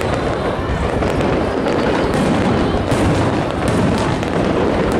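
Aerial fireworks going off in a dense, continuous barrage: overlapping booms with many sharp cracks and crackles on top.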